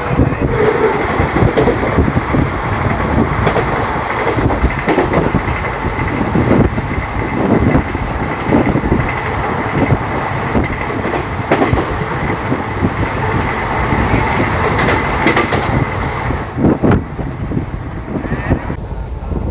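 Kalka Mail passenger train running at speed, heard from on board: a loud, steady rush with the wheels clattering over rail joints. The high hiss drops away suddenly near the end.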